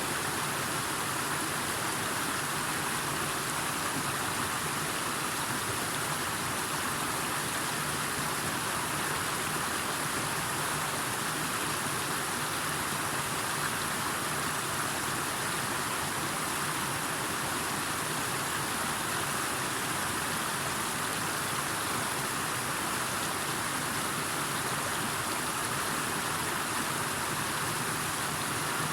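Steady, unbroken rush of water noise, even in level throughout.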